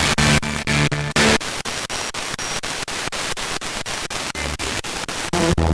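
Spirit box radio sweeping rapidly through stations: hissing static chopped by a click about five times a second as it jumps frequency, with brief snatches of broadcast voice or music near the start and again near the end.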